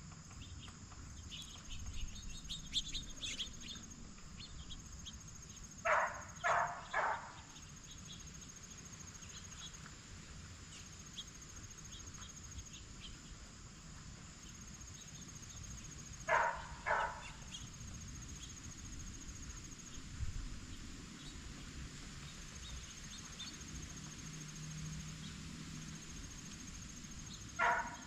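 Blue jays calling in short runs of harsh, loud notes: three about six seconds in, two a little past the middle, and several more near the end. Insects trill steadily and high underneath, with faint small chirps.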